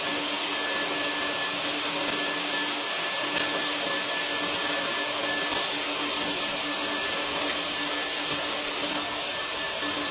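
Vacuum running steadily at full suction while cleaning lint from a dryer vent: an even rushing hiss with a steady motor whine.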